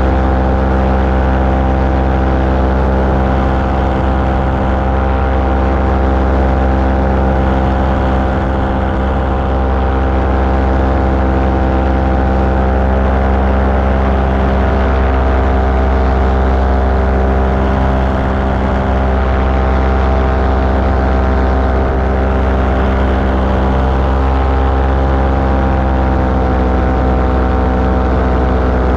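Small aircraft engine running steadily at constant power in flight, with its pitch dipping slightly near the end.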